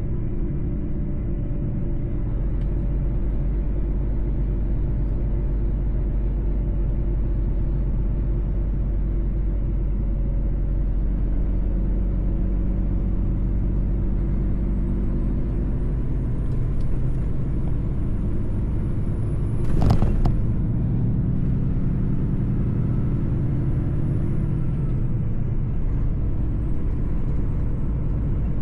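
Mercedes-Benz truck's diesel engine and road noise while driving, a steady low rumble, with one sharp knock about twenty seconds in.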